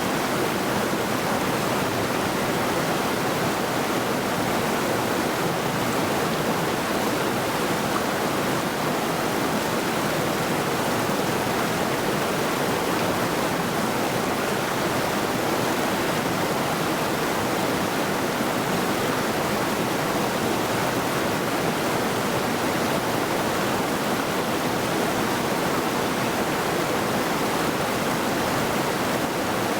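Middle Saluda River, a rocky mountain river, rushing and splashing over rocks in a steady, unbroken rush of water.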